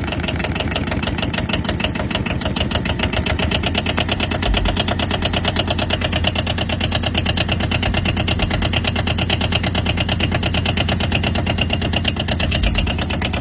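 2012 Arctic Cat 700 twin-cylinder diesel engine running steadily with fast, even firing, just after a cold start, throttle set a little above idle to warm it up.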